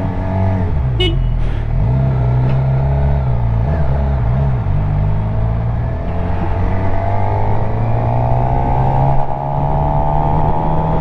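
Suzuki GSX-R750's inline-four engine running while the bike is ridden. Its pitch wavers in the first few seconds, then rises steadily from about halfway as the bike accelerates.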